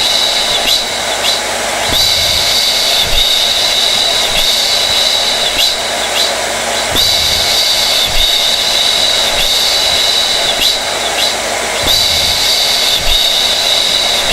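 Hair dryer running steadily: a rush of blown air with a high whine from the fan motor. The sound wavers slightly in a pattern that repeats about every five seconds.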